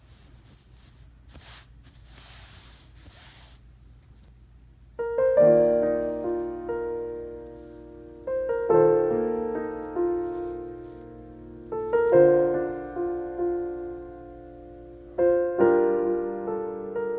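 Solo piano background music that starts about five seconds in: slow chords struck roughly every three seconds, each left to ring and fade. Before it there is only faint hiss with a couple of brief soft noise swells.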